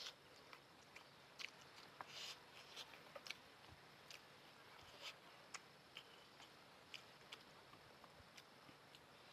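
Faint close-miked chewing of noodles: irregular wet mouth clicks and soft smacks, with a brief slurp-like hiss about two seconds in.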